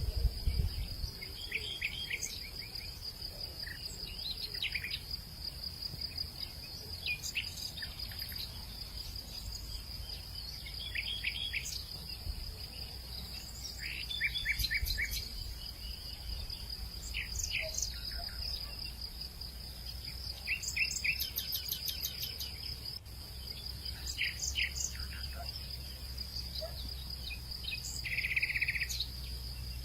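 Outdoor evening nature ambience: a steady high-pitched insect trill runs throughout, with birds giving short scattered chirps every second or two, over a low rumble.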